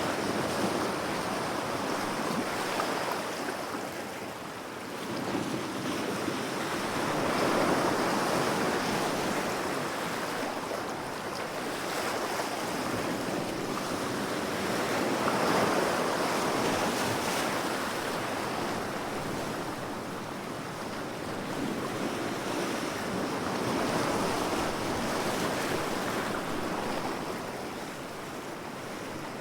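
Ocean waves breaking and washing up the shore: a continuous rush of surf that swells and ebbs about every eight seconds.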